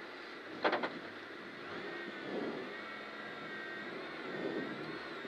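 Saab 9-3 Turbo rally car's engine idling low while the car stands still, with faint steady whining tones over it. A quick double click sounds about two-thirds of a second in.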